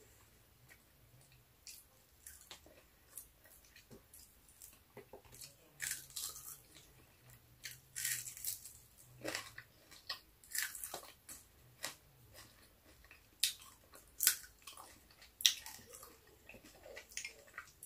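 Close-up chewing and crunching of crisp fried milkfish (bangus) eaten by hand: irregular crackles and crunches, sparse at first, then denser and louder from about six seconds in until near the end.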